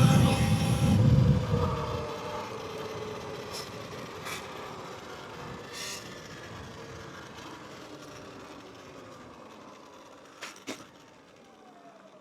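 Dirt bike engine running loud at first, then dropping away over the first couple of seconds and fading steadily, its pitch sliding down. Two short clicks come near the end.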